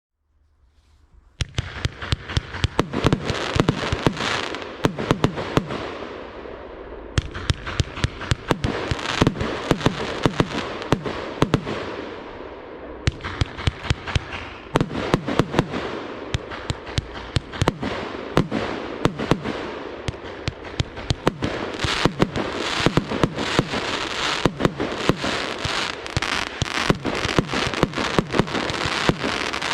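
Evolution Fireworks 'Otello' 100-shot 30 mm compound cake firing. A rapid string of sharp shot reports starts about a second and a half in, with a rushing hiss between them. Fresh heavy volleys come in about seven and thirteen seconds in, and the firing carries on without a break.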